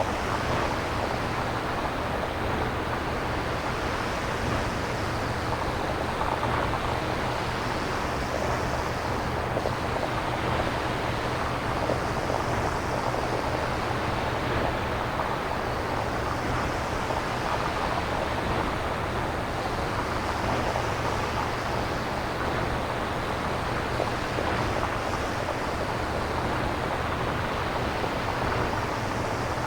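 Synthesized nature-style noise from a synthesizer, made without samples: a steady rushing hiss with gentle swells about every four seconds, like surf.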